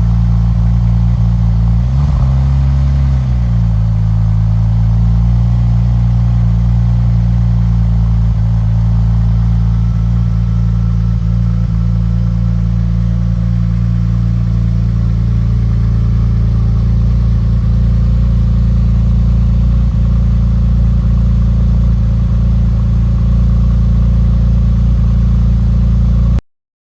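2001 Porsche 996 Turbo's twin-turbocharged 3.6-litre flat-six idling after a cold start, with one brief blip of the throttle about two seconds in before it settles back to a steady idle.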